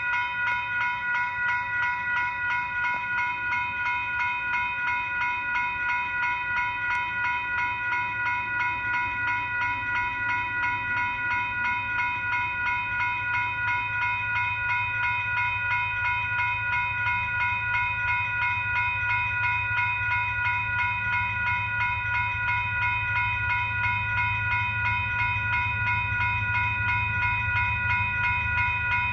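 Railroad grade-crossing bell ringing steadily, a few strikes a second, over the low rumble of a train that grows louder in the second half.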